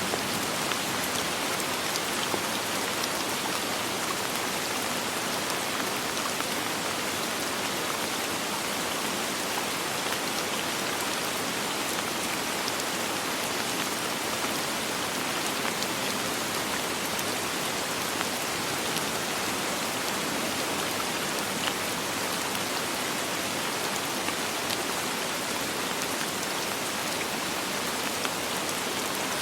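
Steady soft rain falling, an even hiss with fine patter of individual drops and no thunder.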